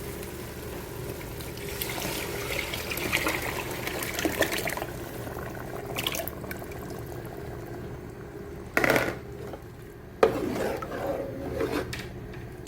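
Chicken stock being poured into a pot of stew base, a steady liquid pour. Two short knocks follow near the end.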